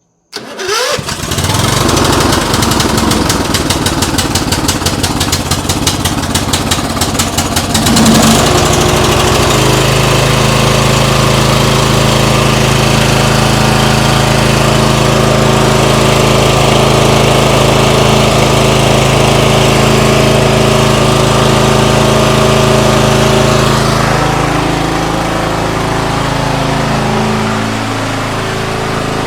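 Briggs & Stratton 13.5 hp overhead-valve lawn tractor engine starting on starting fluid after years of sitting. It catches almost at once and runs roughly with a fast, uneven beat for about eight seconds, then settles into a steady run. Near the end it eases to a lower, quieter run.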